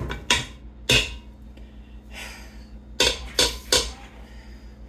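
A spoon stirring chicken and quinoa in an Instant Pot's inner pot on the sauté setting, knocking against the pot: a few sharp clinks, three in quick succession about three seconds in, with a brief scrape between them.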